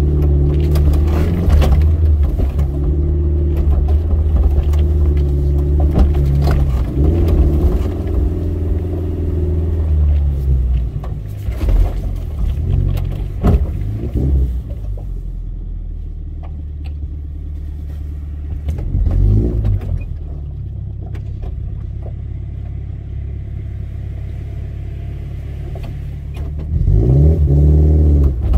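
Off-road 4x4's engine pulling steadily for about ten seconds, then easing off to a quieter run with a few sharp knocks. It revs briefly in the middle and revs up again near the end.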